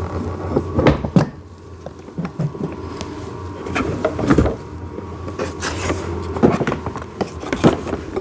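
Plastic parts and a small metal axle knocking and clicking as a toy excavator's bucket is handled and lined up for assembly, a handful of irregular knocks over a low steady hum.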